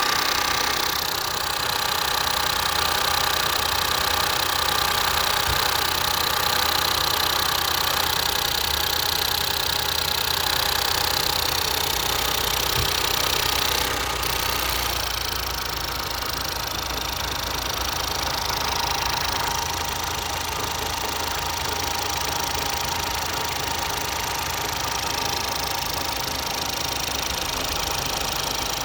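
Ford 1.0 EcoBoost turbocharged three-cylinder engine running steadily at idle, with the unexplained noise whose source is being sought. The sound gets slightly quieter about halfway through.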